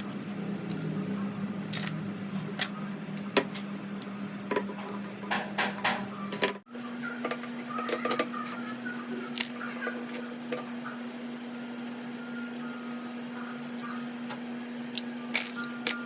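Irregular clicks and light metallic taps of a screwdriver and small carburettor parts being handled as a motorcycle carburettor is taken apart, over a steady background hum.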